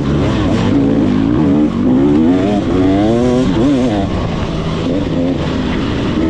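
Motocross bike engine being ridden hard, its pitch rising and falling quickly as the throttle opens and closes.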